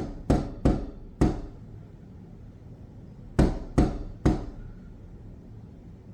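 A crane rapping its bill against a window pane: seven sharp knocks, four in quick succession, then after a two-second pause three more.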